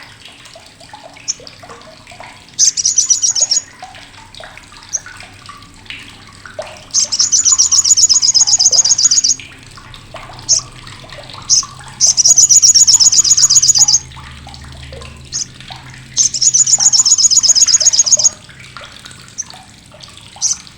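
Olive-backed sunbird (sogok ontong / sriganti) giving its harsh, sharp chattering 'crecetan': four loud bursts of fast repeated high notes, each a second or two long, with single short chips in between.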